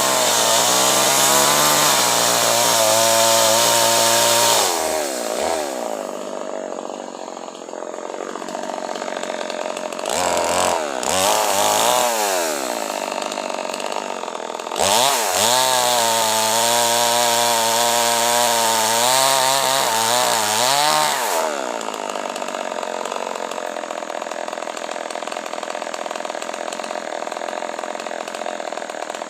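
Two-stroke chainsaw cutting acacia wood: the engine runs at high revs in three bursts, the longest near the start and another past the middle, dropping back between them, then settles to a steadier, lower running for the last several seconds.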